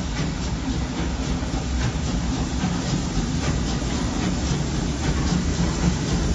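Two DR class 01.10 three-cylinder steam locomotives pulling a train out of a station: steady rumbling train running noise with faint repeated beats and wheel clicks.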